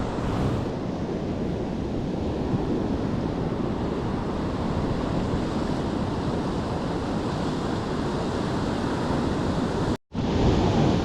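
Sea waves washing onto a beach, with wind buffeting the microphone; the sound cuts out for a moment near the end.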